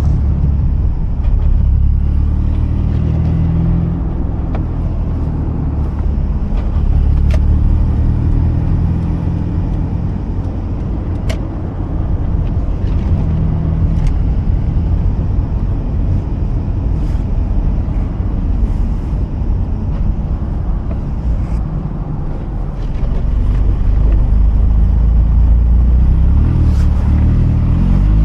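Mazda RX-8's rotary engine running at steady low revs, with tyre and road noise from a car driving slowly. The engine note grows louder near the end.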